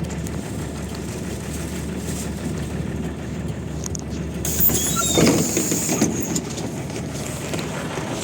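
PAZ 32054 bus engine running steadily, heard from inside the bus, with a loud hiss of air lasting under two seconds about halfway through.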